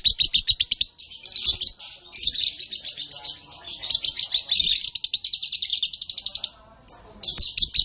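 Canary singing: a long run of fast, rapidly repeated trills and chirps. It breaks off briefly near the end, then gives one more short phrase.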